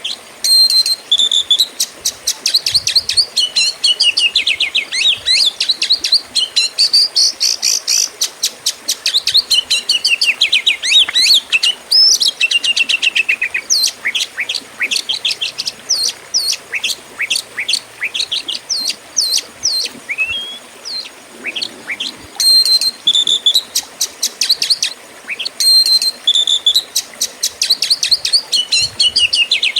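Oriental magpie-robin (kacer) singing a loud, fast, varied song of whistles, sweeping notes and rapid trills, with some phrases coming back again near the end.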